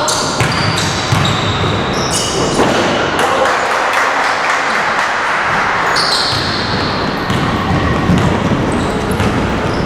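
Indoor team game in a sports hall: sneakers squeaking on the court and a ball thudding, echoing in the hall, under a general bustle of players.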